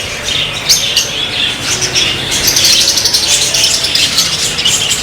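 A crowd of caged finches and other small pet birds chirping at once: a dense, unbroken chatter of high calls.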